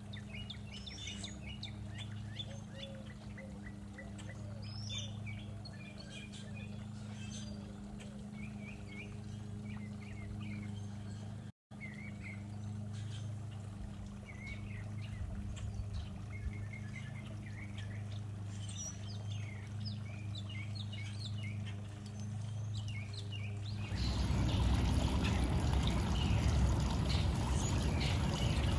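Small backyard birds chirping over and over, with a steady low hum underneath. Near the end a louder, even rushing noise comes in.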